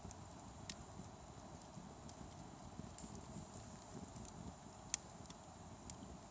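Wood campfire crackling and sizzling: irregular small pops and ticks over a steady hiss, with two sharper pops, one under a second in and one near five seconds.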